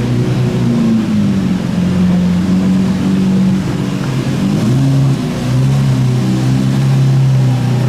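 A car engine running at low revs with a deep, steady note, drifting slightly in pitch and briefly easing off about five seconds in.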